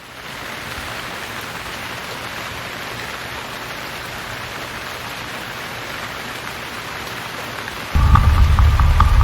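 Steady heavy rain, an even hiss that fades in at the start. About eight seconds in, a sudden loud low rumble cuts in over it, with a quick run of light ticks.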